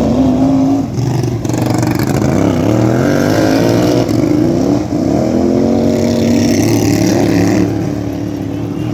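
Several racing lawn tractor engines running at full throttle at once, their pitches rising and falling as they rev up and back off around the track.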